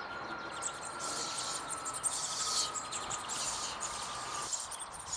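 Birds chirping and trilling outdoors, with a thin steady high tone that stops about four and a half seconds in.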